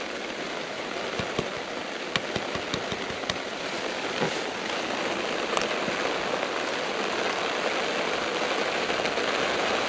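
Heavy rain pouring down steadily onto the lake surface, with a few sharp ticks of drops or knocks close to the microphone in the first half.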